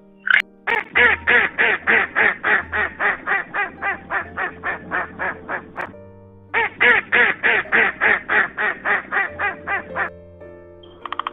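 Duck quacking in two long rapid runs of about four quacks a second, each run growing fainter, with a short pause between them.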